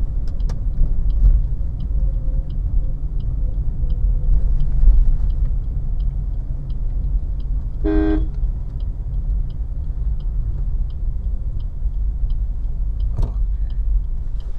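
Car on the move heard from inside the cabin: a steady low road and engine rumble, with a light ticking about twice a second like a turn-signal indicator. About eight seconds in, a car horn gives one short toot.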